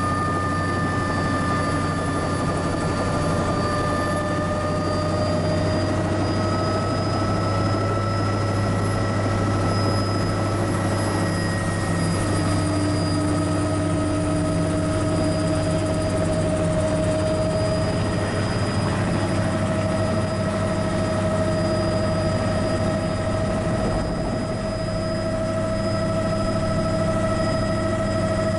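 Bell 206B JetRanger helicopter's turboshaft engine and rotors running in a steady drone with a constant low hum, under a turbine whine that creeps up slightly in pitch over the first several seconds and then holds steady.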